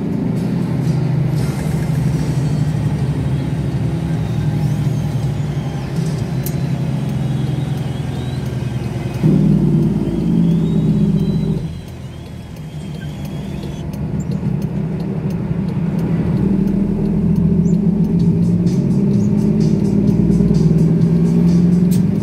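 Cummins diesel engine in a semi truck running under load. It gets louder about 9 s in, drops off sharply a couple of seconds later, then builds steadily again, as when the truck comes off the throttle and pulls back up.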